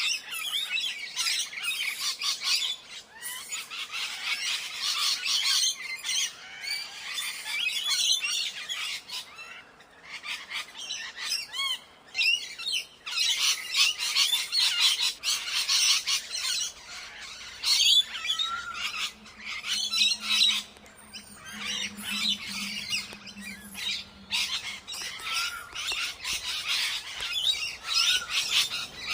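Birds calling in a dense chorus of rapid chirps and squawks, with a few short rising and falling whistled notes near the end.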